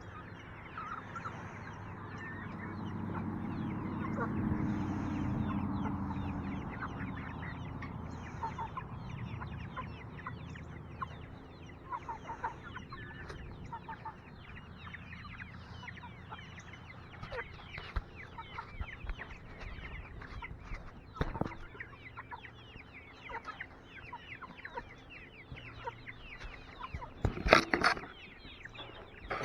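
Chickens clucking and chattering, many short quick calls, with a louder call near the end. A low hum sits under the first few seconds.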